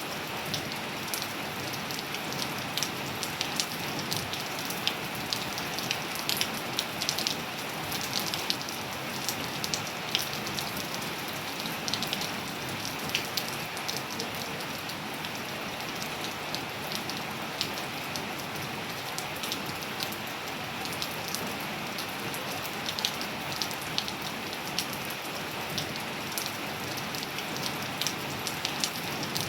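Steady rain falling on a surface, an even hiss with many separate sharp drop impacts scattered through it.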